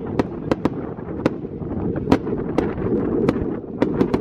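Fireworks going off: about a dozen sharp cracks and bangs at irregular intervals, over a continuous low rumble of more distant bursts.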